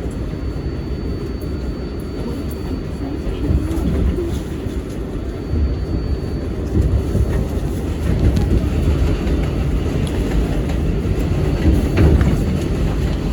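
Rumble and rail noise of an R188 subway train heard from inside the car, swelling in the second half, with a faint steady high whine over the first half and a few sharp clicks.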